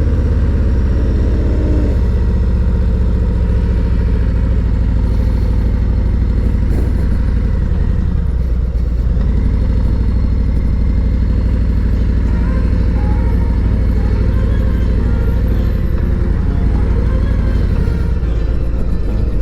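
Harley-Davidson Road Glide Special's Milwaukee-Eight 114 V-twin running under way through S&S MK45 slip-on mufflers, a steady low exhaust note with a brief dip in pitch about eight seconds in.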